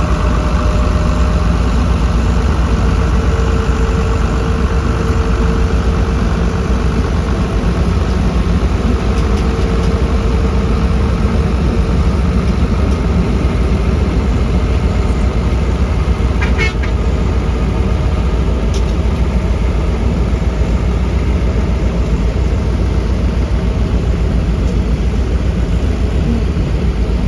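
Diesel engine of heavy construction machinery running steadily, with a brief high-pitched squeak about sixteen seconds in.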